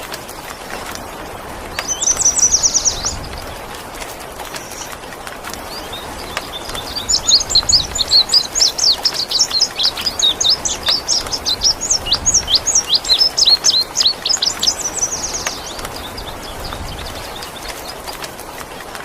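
Indigo bunting singing: a short burst of rapid high notes about two seconds in, then a long run of quick, high chirping notes from about six to fifteen seconds, over a steady hiss of rain.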